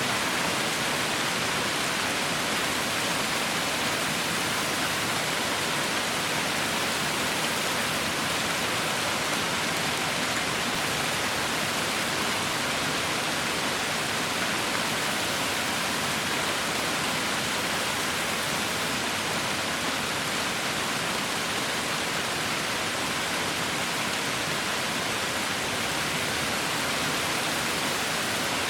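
Heavy rain falling steadily, an even, unbroken hiss with no distinct drops or thunder.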